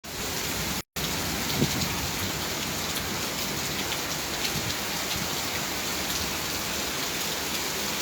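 Heavy rain pouring down steadily, with scattered drops ticking and splashing. The sound cuts out for an instant just before one second in.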